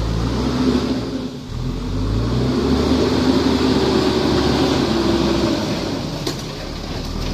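Heavy machine's engine running, dropping briefly about a second and a half in, then revving up and holding before easing off near the end.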